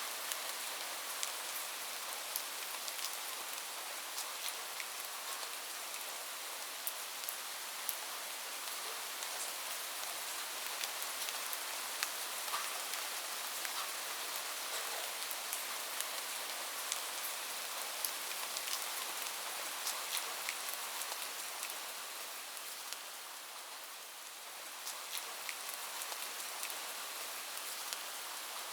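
Steady rain with frequent sharp drops ticking on a hard surface, easing briefly a little before the end.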